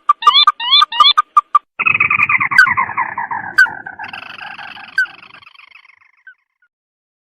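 Crake (tikusan mata merah) calling: a run of quick, clipped, evenly spaced notes with rising slurred notes mixed in, then about two seconds in a long trill that falls in pitch, slows and fades out. A few sharp clicks sound over the trill.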